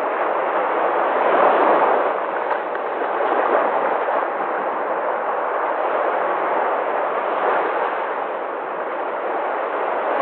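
Sea waves breaking: a continuous rushing wash of surf that swells and eases gently.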